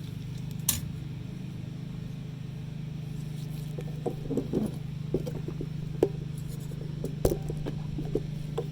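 Scattered sharp clicks and light taps of small parts being handled and fitted together while a fuel pump and fuel level sender assembly is put back together. A cluster of taps comes about four seconds in. Under them runs a steady low hum.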